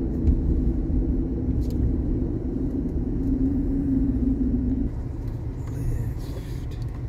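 Road and engine noise of a moving car, a steady low rumble. A humming note in it stops about five seconds in, and the noise eases a little.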